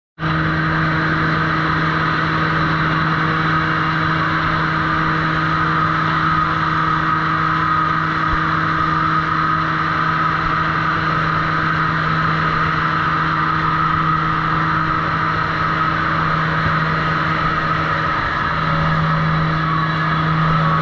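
Sawmill machinery running with a steady, loud hum, without any sharp cutting or impact sounds.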